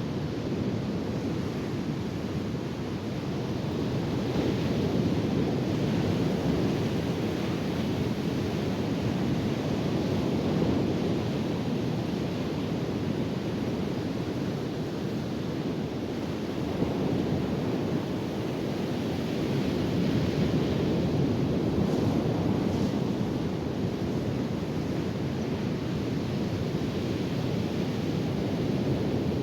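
Ocean surf rushing steadily on a beach, rising and falling gently in slow swells.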